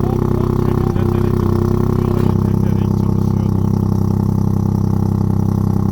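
Ford Fiesta ST Mk8's 1.5-litre turbo three-cylinder idling steadily through a Milltek downpipe with the GPF deleted and the factory rear silencer. The tone shifts slightly about two seconds in.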